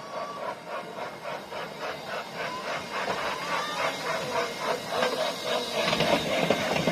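Small amusement-park train running past, its wheels clicking rhythmically over the rail joints about four times a second, growing louder toward the end.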